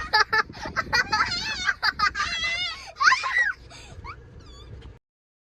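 High-pitched children's voices, wavering and wordless, with fainter voices toward the end; the sound cuts off suddenly about five seconds in.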